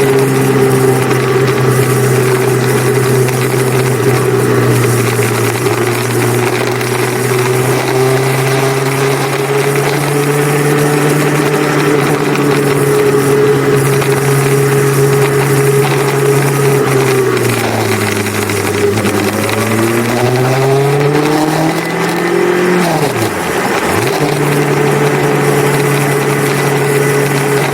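Motorcycle engine running steadily under way, its revs easing off and then climbing again about two-thirds of the way through, followed by a quick dip and rise a few seconds later.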